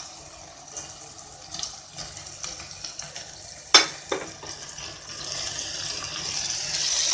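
Chopped tomatoes sizzling in hot oil with frying onions and ginger-garlic paste in a pressure cooker pot. Two sharp utensil knocks on the pot come a little under four seconds in, then the sizzle grows louder as a spatula stirs the mixture.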